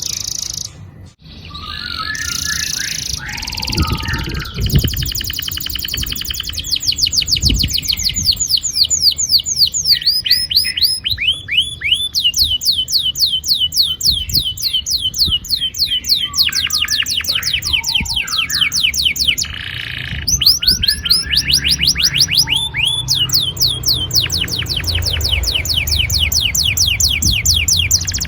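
Domestic canary singing long rolling trills: rapid runs of repeated down-sweeping notes, several a second, broken by short pauses about a second in and again near twenty seconds in.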